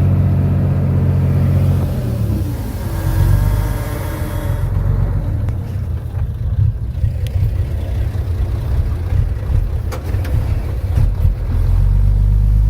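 Diesel engine of heavy earthmoving machinery running. A steady low hum gives way about two seconds in to a rougher, uneven rumble as the load changes, with a few sharp metallic clanks later on. The steady hum returns near the end.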